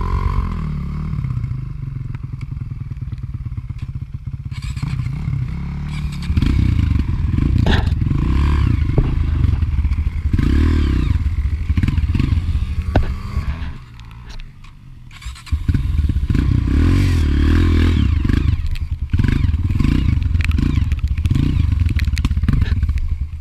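Dirt bike engine running under changing throttle, rising and falling as the bike rides, easing off for about a second a little past halfway before picking up again.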